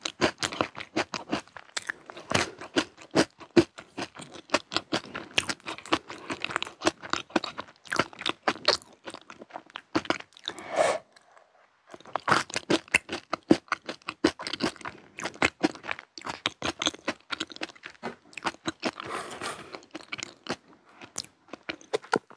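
Close-miked chewing of crunchy chocolate snacks: dense, irregular crunching and crackling, with a short pause about halfway through.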